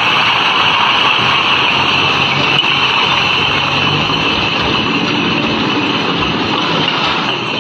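Heavily overloaded truck's diesel engine running steadily under load, with a steady high hiss over the low engine note.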